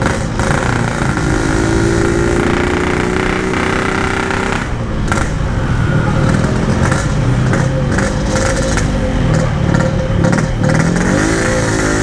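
Yamaha RX-King 135cc two-stroke single-cylinder motorcycle engine running on the move, over steady wind rush. It is running weak and cannot pull hard, a sign of its broken reed valve petal. Its pitch wavers, then dips and climbs again near the end.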